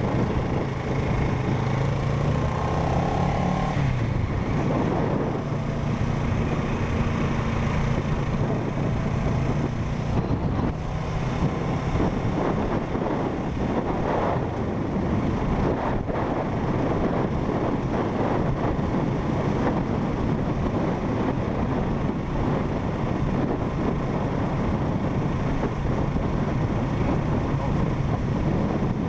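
A parallel-twin motorcycle engine running steadily while riding, with a steady engine note clear for the first few seconds, under a dense rush of wind and road noise.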